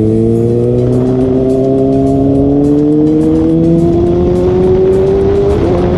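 Kawasaki Ninja ZX6R inline-four with an Austin Racing aftermarket exhaust, pulling in gear, its exhaust note climbing slowly and steadily in pitch, with a brief dip near the end before the pitch levels off.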